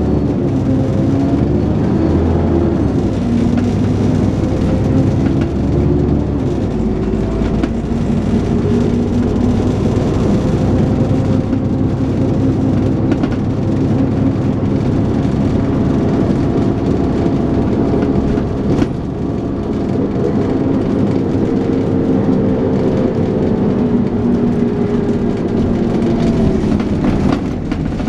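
Dennis Trident 2 double-decker bus engine pulling hard under load, with some thrash, its note rising and falling several times as it changes gear, over road noise and rattles. The engine dips briefly about two-thirds of the way through and again near the end.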